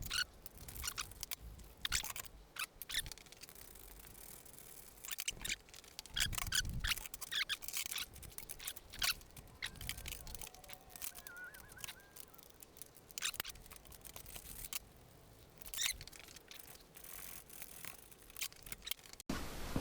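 Faint, scattered clicks and light metallic taps of a socket wrench with an extension being fitted and worked on a 14 mm bolt.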